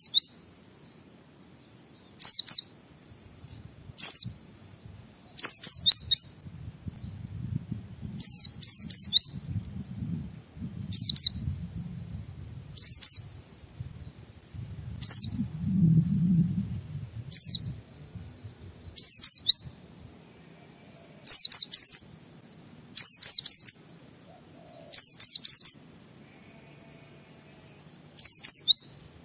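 A white-eye (pleci) singing its ngalas-style song: short, loud phrases of high, quickly falling chirps, one every one and a half to two seconds. A faint low rumble sits underneath through the middle stretch.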